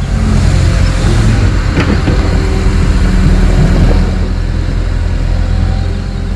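An engine running steadily with a low, even drone, a little louder for a few seconds in the middle.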